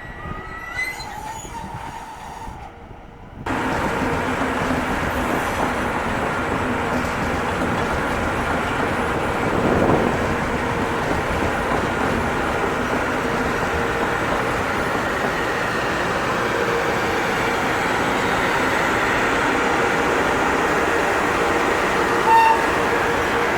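A train passing through the station. Its loud, steady rushing noise with a faint hum cuts in abruptly about three seconds in and keeps on.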